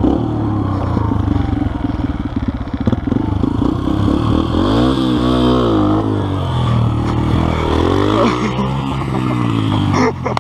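Motorcycle engine running and revving, its pitch climbing and dropping twice, once around the middle and again near the end.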